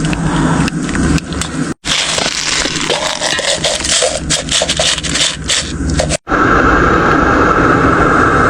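A pot of glutinous rice balls boiling on a camp stove, with scraping and crackling. A steady hiss takes over in the last two seconds, after a short break.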